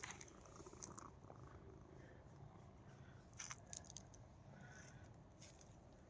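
Near silence: a faint steady low hum with a few soft clicks and rustles, about a second in, twice around three and a half seconds, and once more near the end.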